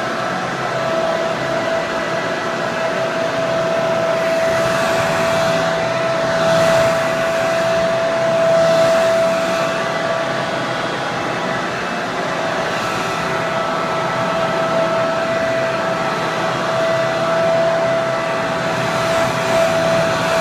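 Hair dryer running steadily: a continuous rush of air with a steady motor whine.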